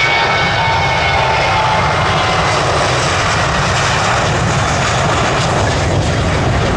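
Jet aircraft engines at close range: a loud, steady rush with a high whine that fades in the first couple of seconds.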